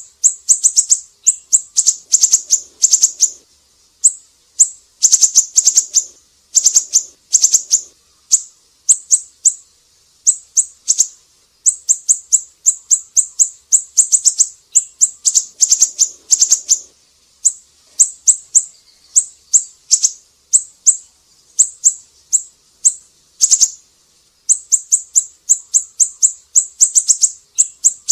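Recorded song of a siri-siri bird: rapid runs of short, high, sharp chirps, repeated in bursts of several notes with brief gaps between them.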